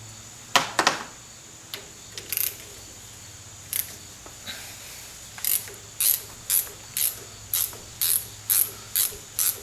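Hand socket ratchet wrench clicking as it is swung back and forth to back nuts off their studs. A few scattered clicks at first, then from about halfway a steady rhythm of about two ratcheting strokes a second.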